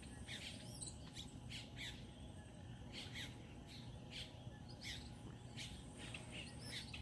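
Birds chirping faintly: short, irregular calls, a few each second, over a low background hum.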